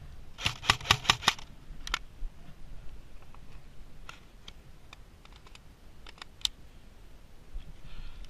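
Airsoft guns firing: a quick string of about six sharp cracks, one more a moment later, then a few fainter, scattered shots.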